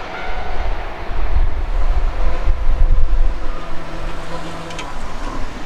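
Keihan 8000 series electric train passing on curved track: a steady low rumble of wheels on rail with faint steady motor tones, and a short sharp click near the end.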